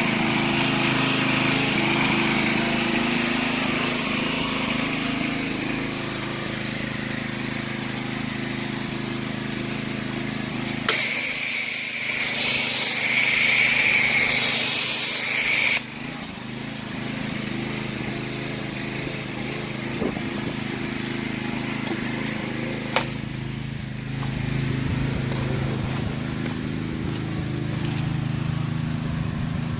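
Small gas engine of a pressure washer running steadily. About eleven seconds in, a loud hissing spray starts and cuts off sharply some five seconds later, with a single click later on.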